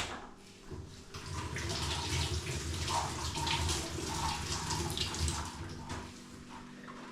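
Water running from a tap, starting about a second in and easing off near the end.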